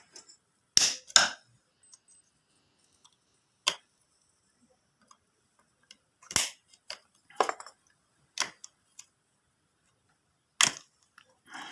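Sharp, irregular knocks and clicks, about nine in ten seconds, from working at a jammed charging connector that has melted from heat on a motorcycle's rectifier regulator wiring.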